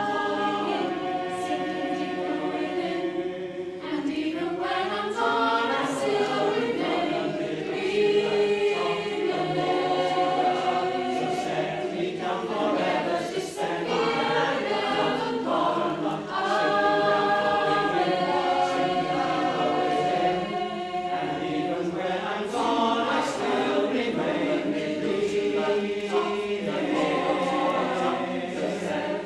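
A mixed choir singing in harmony, holding long sustained notes that change chord every second or two.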